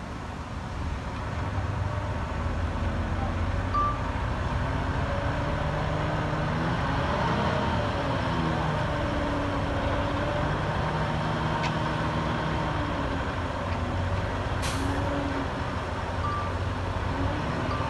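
Heavy diesel engine of a ten-wheel dump truck running and changing pitch under load, with a few short single beeps and a short hiss of an air brake about three-quarters of the way through.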